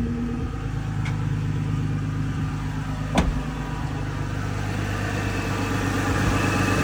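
2001 Isuzu VehiCROSS V6 engine idling steadily just after a cold start, with no valve ticking or fuel-injector clatter to be heard. A single sharp click comes about three seconds in.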